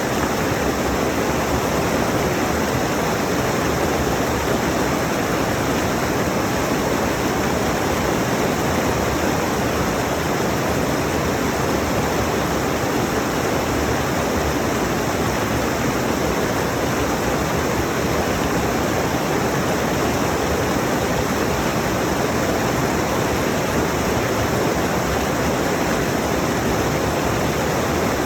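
Mountain stream rushing steadily over rocks, close to the microphone.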